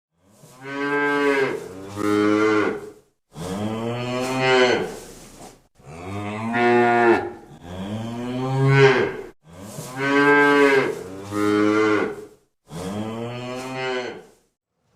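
A large farm animal calling about five times. The calls are long, pitched and loud, each in two parts, with short silent gaps between them.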